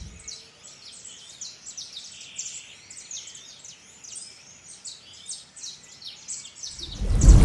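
Songbirds chirping and singing in quick, repeated high notes. About seven seconds in, a loud low rushing burst swells up over them.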